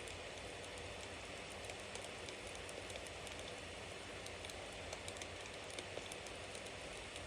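Bonfire burning: a steady hiss with many small, sharp crackles and pops scattered throughout.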